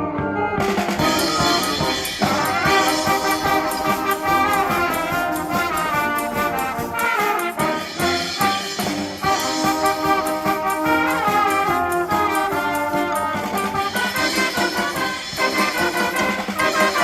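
School wind band playing a send-off piece, with trumpets and trombones out front. The full band comes in sharply about half a second in.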